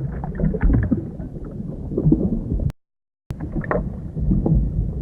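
Low, irregular rumbling and gurgling of an underwater ambience track. It cuts out completely for about half a second a little past the middle.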